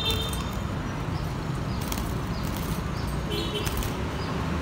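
Budgerigars giving two short, high chirps, one at the start and one about three and a half seconds in, over a steady low hum.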